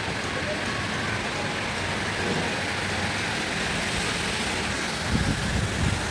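Heavy rain falling, a steady dense hiss, with a couple of low rumbling swells near the end.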